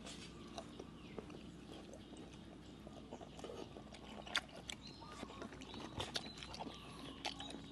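A person eating, with chewing and wet mouth sounds and scattered soft clicks and smacks, louder in the second half.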